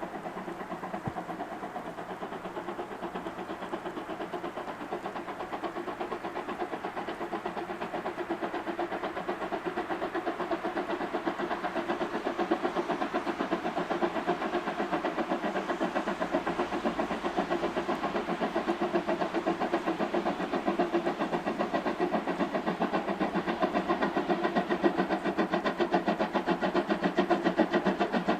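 Steam locomotive C12 66 working a train, its exhaust chuffing in a fast, even rhythm and growing steadily louder as it approaches.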